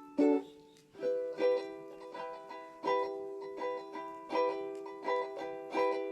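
A Lidl ukulele strummed in chords: one strum just after the start, a brief pause, then a steady rhythm of strummed chords that ring and fade between strokes.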